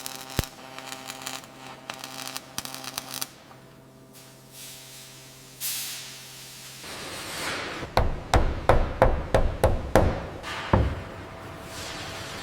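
A steady machine hum, then about eight hammer blows in quick succession near the end.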